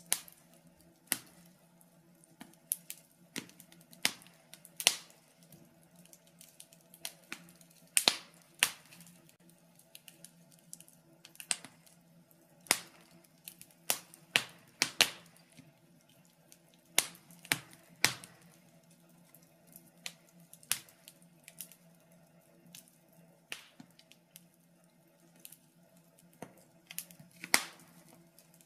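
Wood fire in a fireplace crackling, with irregular sharp pops and snaps of varying loudness, some clustered, over a faint steady low hum.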